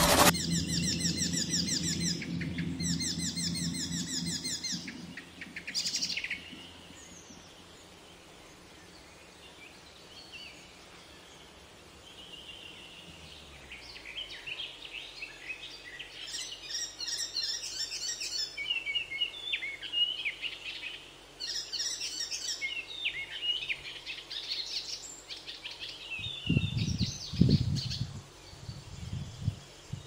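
Birds chirping and calling in quick, high-pitched bursts through the second half, after a few seconds of intro jingle with a whoosh and a quiet stretch. A few low thumps come near the end.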